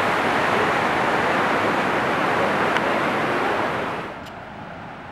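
Rushing water of a river waterfall, a steady loud roar. About four seconds in it falls away sharply to a much quieter hiss.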